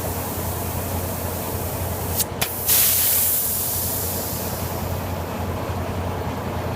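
Grob 24-inch vertical band saw running with a steady hum. About two seconds in, the air-over-hydraulic table feed's valve clicks twice and compressed air hisses out loudly, fading over a couple of seconds.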